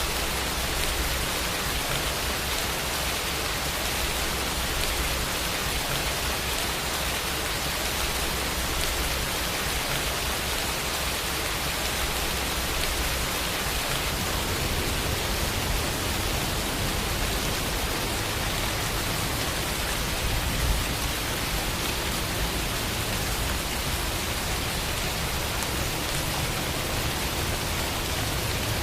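Steady rain falling, an even hiss of many drops with no let-up, and a single slightly louder drop or patter about 21 seconds in.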